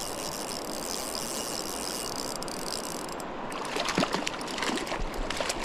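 River water running steadily with a high hiss that stops about three and a half seconds in, followed by a run of quick, irregular splashes and clicks from a hooked golden rainbow trout being fought and reeled in.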